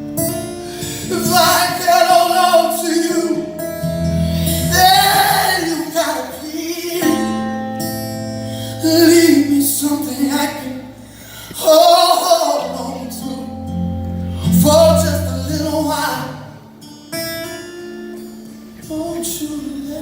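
Live music: a man singing long, bending vocal lines over acoustic guitar.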